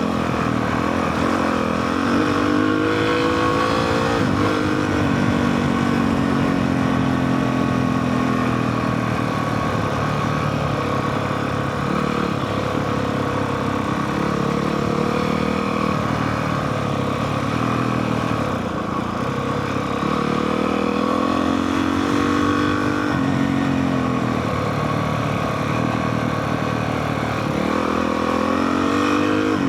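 Honda CRF450R single-cylinder four-stroke dirt bike engine running while descending a dirt hill, its revs climbing and falling off several times as the rider works the throttle, over a steady rushing noise.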